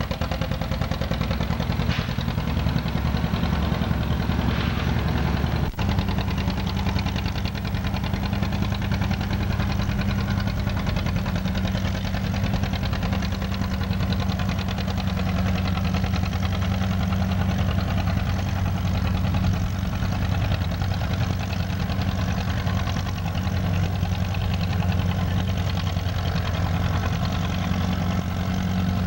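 Antique tractor engine running steadily at a constant speed, with a momentary break about six seconds in.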